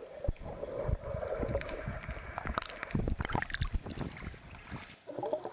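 Water sloshing and bubbling around a camera held in the sea, with many scattered clicks and pops and a brief lull near the end.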